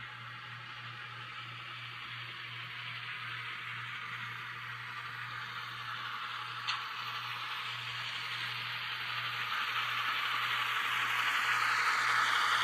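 N-scale Kato E8A model diesel locomotive with a DCC sound decoder, running with its train. It makes a steady hiss over a low hum, with a single click about two-thirds of the way through, and grows louder toward the end as it nears.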